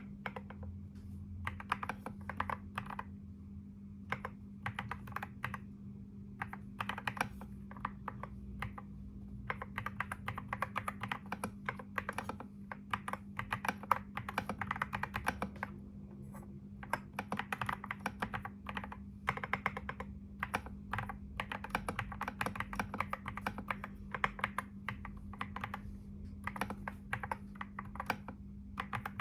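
Typing on a computer keyboard: runs of rapid keystrokes broken by short pauses, with a steady low hum underneath.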